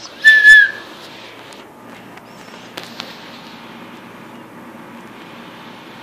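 A pet bird gives one short, loud whistled call just after the start, a steady high note that dips slightly as it ends. Two faint clicks follow about three seconds in.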